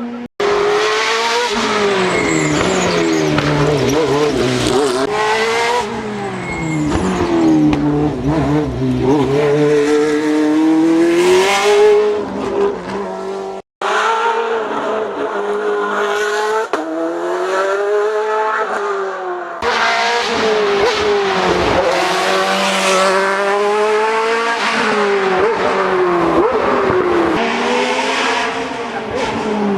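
Racing car engines at full throttle, pitch climbing and dropping repeatedly as they rev up through the gears and back off for corners. The sound breaks off abruptly twice and carries on with a different car's engine.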